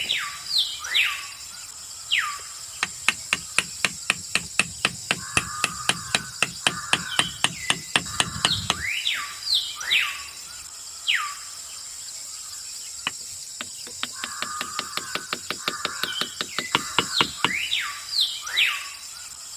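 Small birds chirping in quick, falling calls, over a run of sharp, evenly spaced clicks, about three or four a second. A low hum runs under the clicks for several seconds in the middle.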